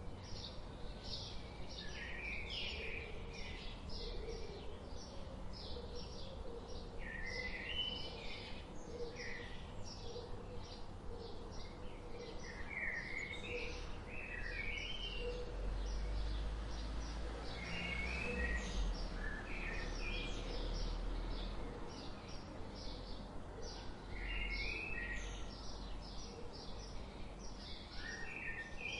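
Songbirds chirping outdoors: a steady run of short high chirps, a couple each second, with warbled phrases from other birds scattered among them. A low rumble comes in through the middle stretch.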